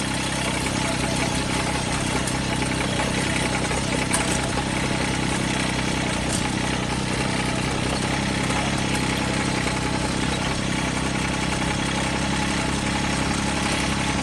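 John Deere tractor's diesel engine running steadily at a constant speed.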